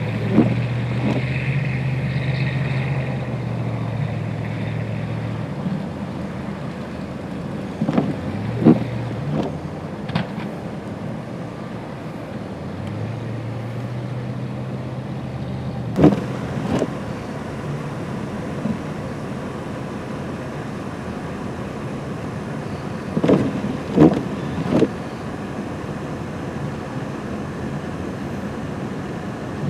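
Motor vehicle engine humming over a steady rush of wind and road noise, the hum rising in the first few seconds and again about halfway through, with scattered sharp knocks.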